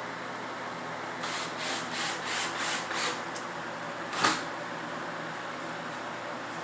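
Quick rasping strokes on wood, about three a second for two seconds, then a single sharp knock.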